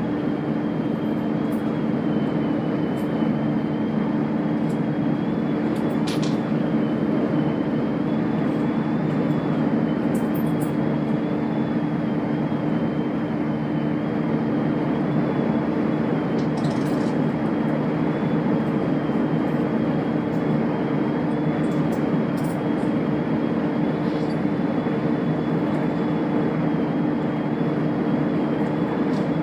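Chiltern Railways diesel multiple unit running steadily along the line, a continuous rumbling noise with a steady hum and a faint high whine, broken by a few sharp clicks.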